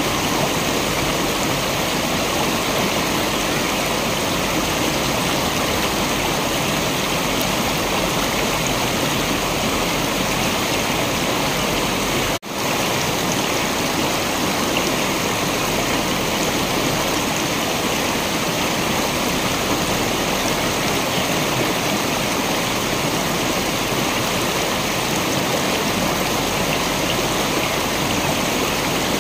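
Steady rush of a waterfall, an even wash of falling water. It cuts out for an instant about twelve seconds in, then resumes unchanged.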